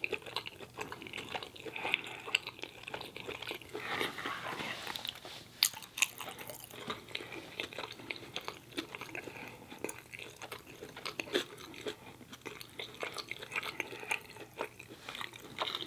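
A man chewing food with his mouth closed, full of small wet clicks, with a short run of sharper clicks about six seconds in.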